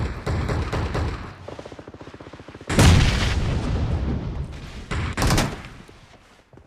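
Shooter video game gunfire: rapid automatic weapon fire, with a louder, heavier burst about three seconds in and another just past five seconds, dying away near the end.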